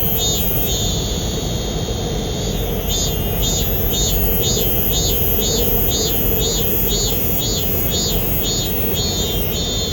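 Cicada-like buzzing, pulsing about three times a second with one longer held stretch from about one to two and a half seconds in, over the steady rumble of a subway train.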